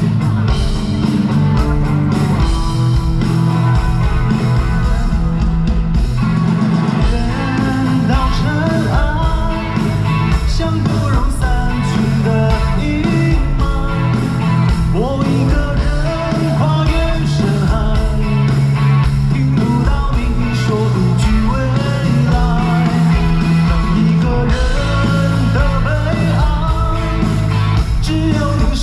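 Live band music with a singer, recorded loud from the audience: a rock-style band with guitars and a heavy bass under the vocal line.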